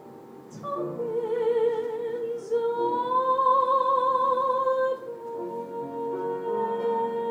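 Female singer holding a long note with wide vibrato over the song's accompaniment; the voice stops about five seconds in and the accompaniment holds on with steady chords.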